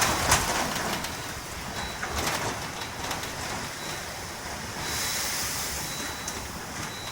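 Typhoon wind and rain: a steady rushing hiss with gusts, loudest in the first moments and swelling again about five seconds in.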